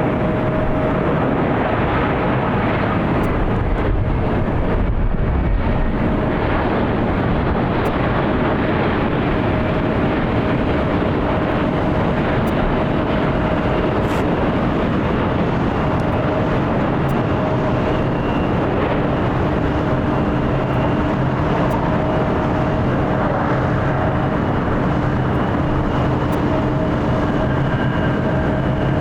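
Boeing 787 Dreamliner jet engines running: a constant rush with a steady whine, holding one level throughout.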